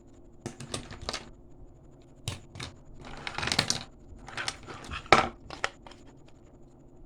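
Plastic toy packaging being handled and crinkled in a string of short rustling bursts, one longer crackle in the middle and the loudest sharp crackle about five seconds in.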